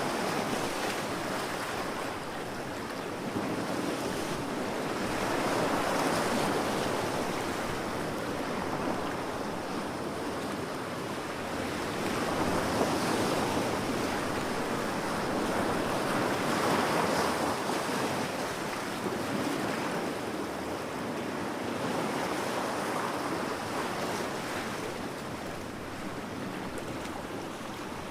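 Ocean surf: waves rolling in and washing back, the rushing sound swelling and fading every few seconds.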